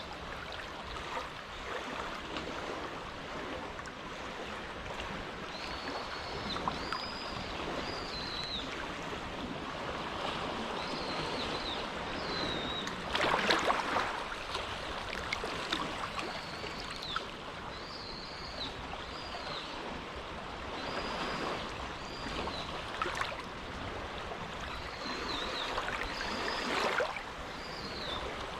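Small, quiet waves lapping and washing at the edge of an inlet, a continuous wash that swells now and then, most strongly about halfway through. Short high chirps repeat every second or two over it.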